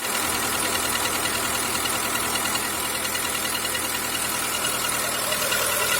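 Skoda Fabia II 1.4 engine running at idle with a rapid, regular knock in it: the engine knock whose cause the owner is trying to find.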